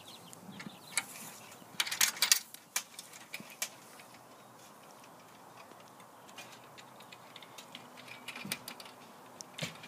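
Scattered light clicks and knocks, a short cluster about two seconds in and a few more near the end.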